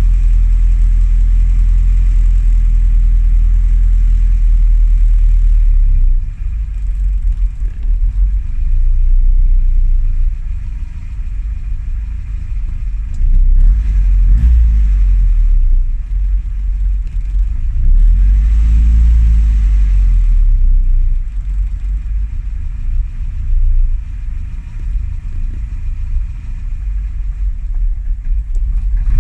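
Classic Mini's A-series engine running at a loud, rumbling idle, revved up and let fall back twice, around the middle and about two-thirds of the way through.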